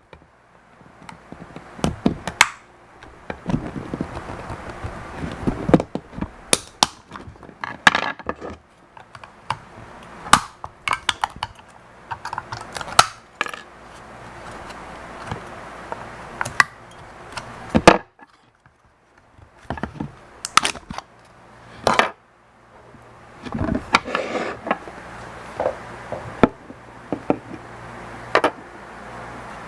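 An OMRON H7CN counter being taken apart by hand: irregular clicks, knocks and scrapes of tools and the casing, with a few sharp loud strikes, the loudest about eighteen seconds in.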